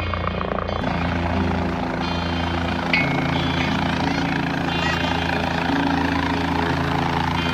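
Water rushing steadily over a dam spillway, a loud even roar, with background music underneath.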